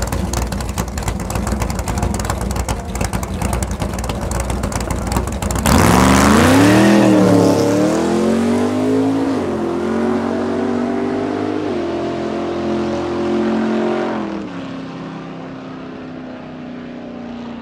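Corvette C3's naturally aspirated 9.3-litre big-block V8 running with a rapid, lumpy pulse at the drag-strip start line, then launching hard about six seconds in. Its pitch climbs and drops back at several gear changes as it accelerates away, fading into the distance near the end.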